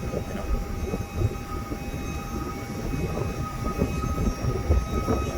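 Vehicle cabin noise while driving: a steady low rumble of road noise with irregular bumps and a faint steady whine.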